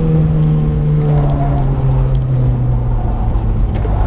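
Mitsubishi Lancer Evolution IX's turbocharged four-cylinder engine heard from inside the cabin, running under load through an autocross course, its pitch easing slowly down as the revs drop.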